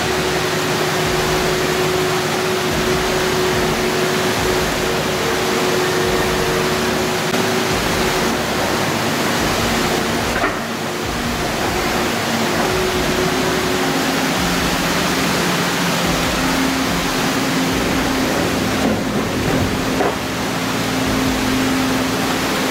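A heavy vehicle's engine running steadily under load, with a loud hiss of wind or road noise over it; its note shifts lower about two-thirds of the way through.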